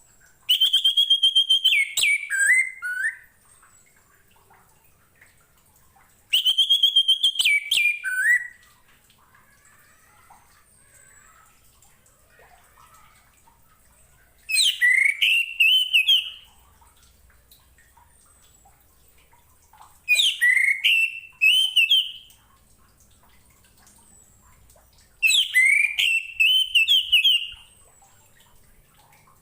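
Orange-headed thrush (anis merah) singing five short phrases a few seconds apart. Each phrase is a clear whistle with rapid high notes over it: the first two open on a held steady note that then falls, and the later three rise into a warbling whistle.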